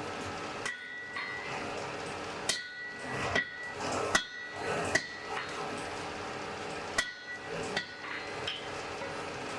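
Blacksmith's hammer striking an anvil, about eight irregularly spaced blows, each leaving a bright metallic ring that hangs on between strikes.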